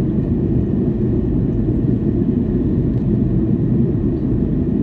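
Steady low cabin rumble inside a Boeing 737-800 airliner in flight, from its CFM56-7B jet engines and the airflow over the fuselage, heard from a window seat.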